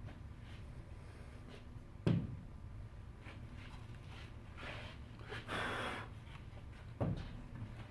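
Workshop handling sounds while a wooden birdhouse is assembled: two dull knocks, about two seconds in and again near the end, and a short scrape shortly before the second knock, over a low steady hum.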